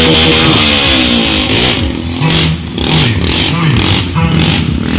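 Motorcycle engines running and revving, their pitch rising and falling.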